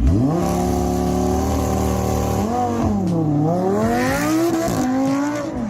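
A car engine revving hard. The pitch shoots up at the start and holds high for about two seconds, then dips about three seconds in and climbs again before dropping away near the end.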